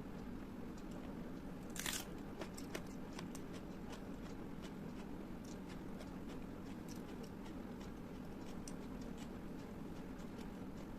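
Close-miked eating: one loud crunchy bite about two seconds in, followed by scattered small crunches and wet mouth clicks of chewing, over a steady low background hum.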